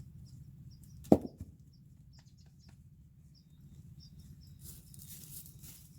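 Small birds chirping in short high notes over a faint steady hum, with a single sharp knock about a second in and rustling starting near the end.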